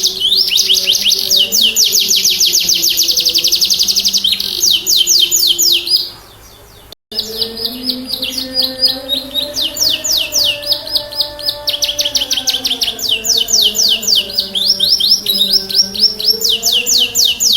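Domestic canary singing a long, continuous song of fast rolling trills, each a rapid run of quick rising notes, changing from one trill to the next. The song breaks off about six seconds in and resumes about a second later, over soft low background tones. It is a full, vigorous song of the kind played to prompt other canaries to sing.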